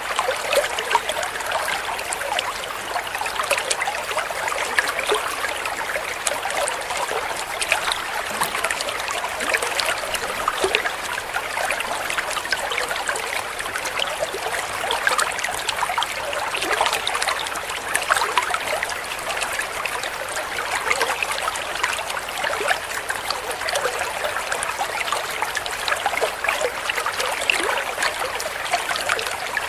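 Trickling, babbling water of a small stream running steadily, with many small splashes and drips.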